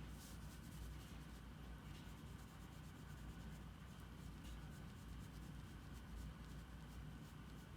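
Faint scratching of a drawing tool stroking across paper, in many short strokes, over a steady low hum.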